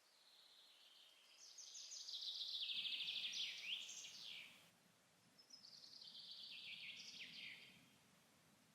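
A songbird singing two trilled song phrases, the first longer and louder, the second starting about halfway through after a short pause.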